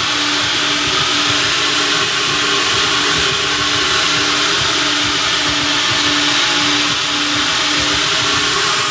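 Coin-operated car wash vacuum running loud and steady as it sucks air through the hose, with a low hum that pulses on and off about twice a second.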